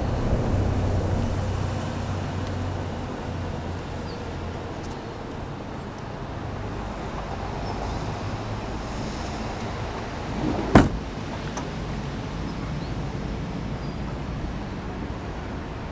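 Intercity 2 double-deck train rolling slowly into the platform. A low rumble fades over the first few seconds, and there is a single sharp clack about eleven seconds in.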